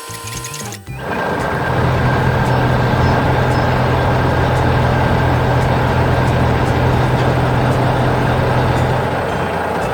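A heavy machine's engine running steadily with a strong low hum. It comes in about a second in, over a short bit of music, and eases off near the end.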